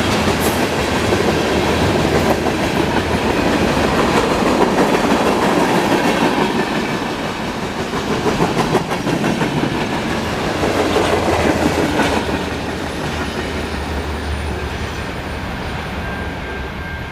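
Freight cars of a mixed freight train rolling past, steel wheels clattering over the rail joints. The noise eases a little after about twelve seconds.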